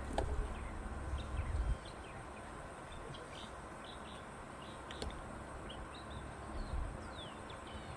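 Birds chirping in short, scattered calls over a faint steady hum. A low rumble cuts off suddenly near the two-second mark.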